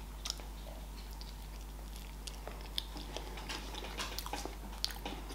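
Close-up chewing of a soft caramel apple pastry: faint, irregular wet mouth clicks and smacks.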